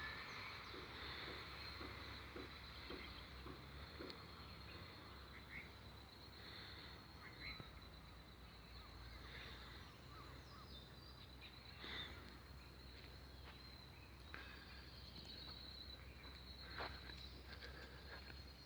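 Faint outdoor ambience: a steady, high, thin insect trill that pulses more strongly near the end, with scattered short animal chirps and clicks.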